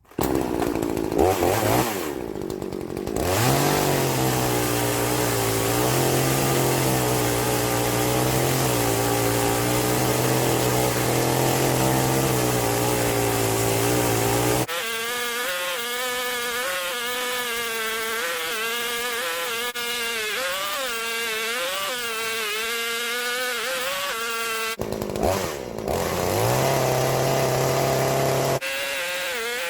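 Titan 50 cm chainsaw revving up and then running steadily at full throttle as it rips lengthways along an oak trunk in a chainsaw-mill jig. The sound changes abruptly twice, and it revs up once more near the end.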